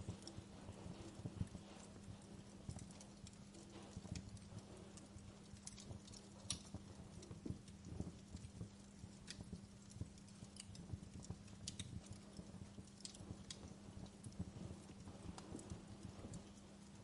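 Wood fire in a fireplace crackling, with irregular sharp pops and snaps over a soft low rumble and a steady low hum.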